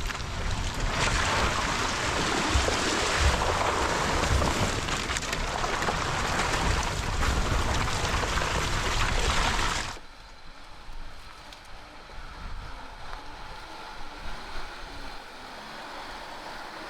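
Rushing water, a dense steady hiss for about ten seconds that cuts off abruptly to a much quieter, faint hiss.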